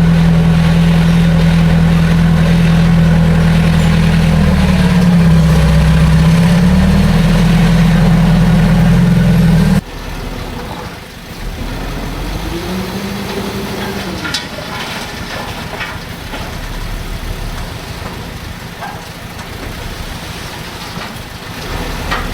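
Heavy diesel engine of earth-moving machinery running loud and steady, its pitch dipping briefly about five seconds in. About ten seconds in the sound cuts abruptly to a quieter diesel engine that revs up and back down once.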